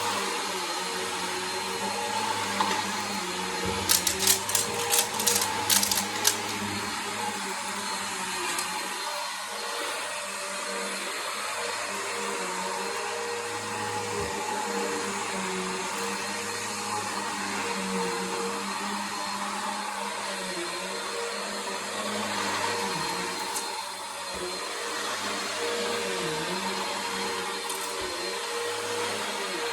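Bissell Power Force vacuum cleaner running steadily with a whining hum. About four to six seconds in, a quick run of sharp clicks and rattles.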